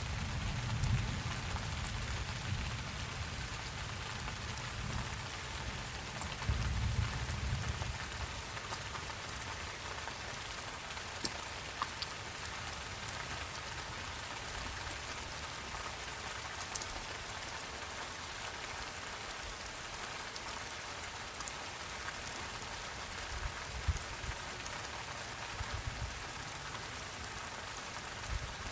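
Steady rain falling, with scattered single drip taps. A low rumble sits under the rain for the first several seconds and fades out.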